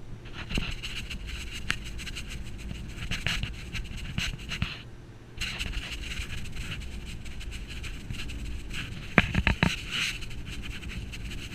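Case IH 2166 combine harvester running with a steady low drone, covered by dense crackling and scraping. The crackling stops briefly about five seconds in, and a cluster of louder knocks comes about nine seconds in.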